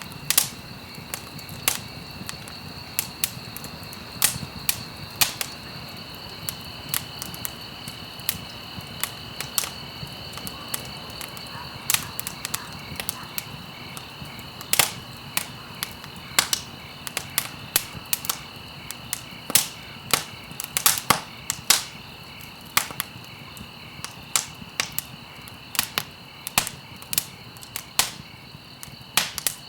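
Campfire crackling and popping: irregular sharp pops, several a second and some much louder than others, over a steady low hiss, with a steady high-pitched two-note tone underneath.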